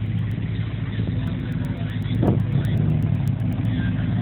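Car engine idling with a steady low rumble, with a brief burst of revs about two seconds in.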